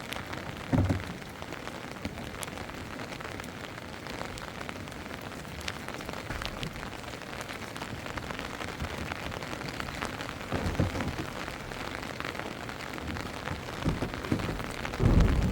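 Steady heavy rain falling, with scattered drop clicks and a few dull low thumps, about a second in and again near eleven seconds.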